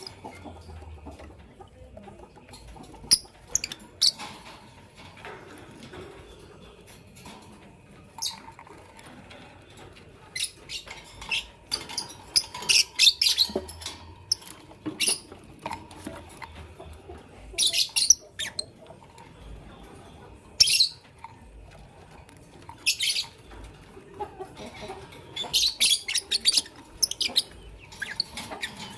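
Lovebirds giving short, shrill chirps in scattered bursts, some in quick clusters, with pauses between.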